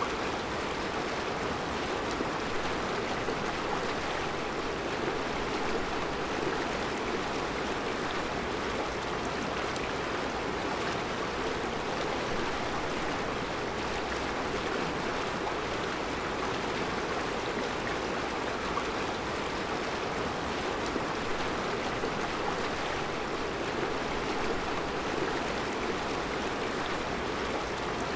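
Mountain river flowing over round rocks in a rocky bed: a steady rushing and babbling of water.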